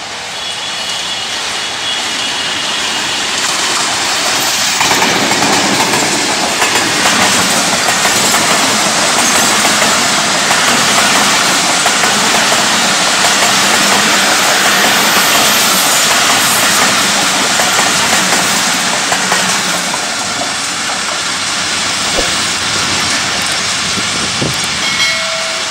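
Pakistan Railways express train passing at close range: a diesel-electric locomotive followed by a long rake of coaches, wheels running on the rails. The noise builds over the first few seconds, stays loud through the middle, and eases as the train moves away near the end.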